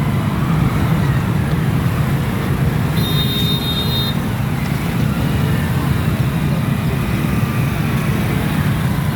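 Road traffic stuck in a jam: a steady low rumble of car and truck engines, with a brief high-pitched ring about three seconds in.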